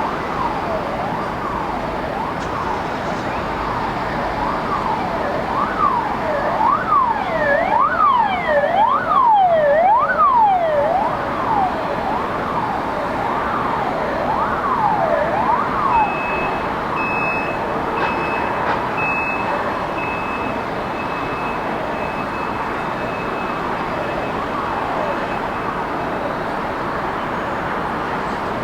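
Emergency vehicle siren wailing, its pitch rising and falling about once a second, over steady city traffic noise. It grows louder to a peak about a third of the way in, then fades away as the vehicle passes.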